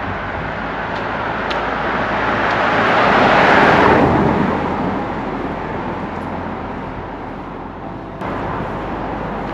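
A car driving past, its tyre and engine noise swelling to a peak about three and a half seconds in and then fading away.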